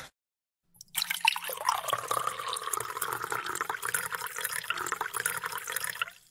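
Liquid being poured into a container, starting about a second in and stopping just before the end.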